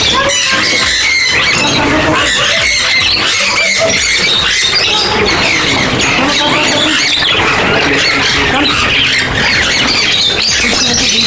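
A dense, loud chorus of many small birds squawking and chirping all at once, with no break.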